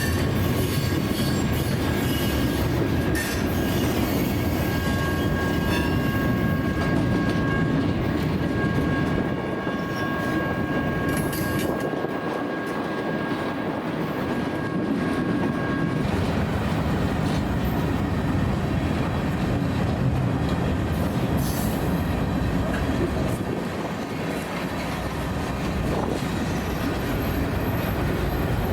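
Freight train rolling past with a steady rumble of wheels on rail. Thin high-pitched wheel squeal rings over it and stops about halfway through.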